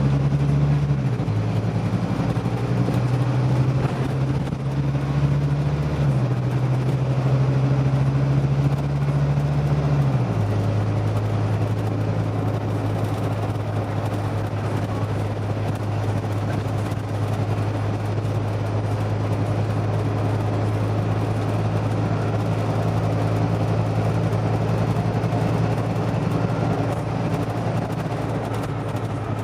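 Scania OmniDekka double-decker bus engine running under way with road noise. Its pitch shifts in steps about a second, six seconds and ten seconds in, then holds steady.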